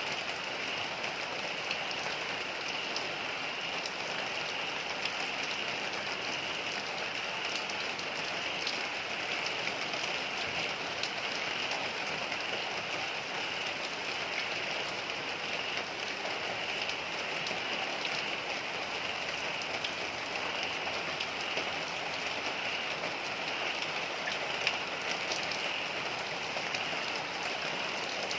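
Heavy rain falling steadily on the front of a house, an even hiss with scattered sharper drop hits.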